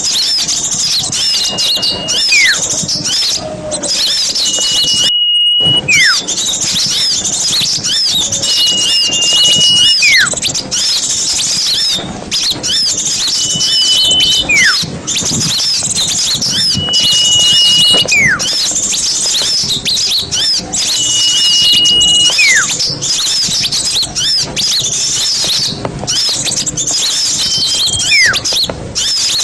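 A crowd of small birds chirping and twittering busily together. Through it, one whistled call repeats about every four seconds: a short steady high note, then a quick falling slur. The sound cuts out for a moment about five seconds in.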